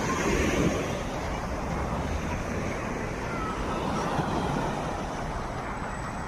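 Steady sea surf washing on a beach, with wind rumbling on the microphone.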